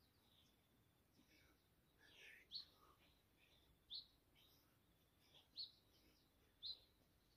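Faint bird chirping: four short, sharp rising chirps repeated about every second to second and a half, with softer chirps between them.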